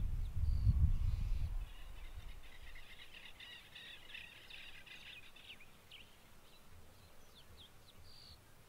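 Birds calling: a rapid, chattering high call from about two and a half to five and a half seconds in, with scattered short chirps around it. A low rumble of wind on the microphone fills the first second and a half.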